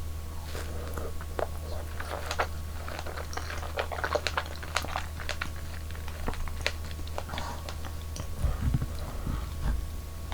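Close-miked eating sounds: biting and chewing a strawberry cream dessert, heard as a run of small sharp clicks. A few dull low thumps come near the end.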